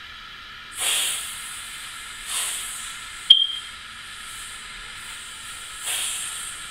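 A woman imitating a snake: one long, breathy hiss held for several seconds, swelling a few times. It starts about a second in, and there is a single sharp click near the middle.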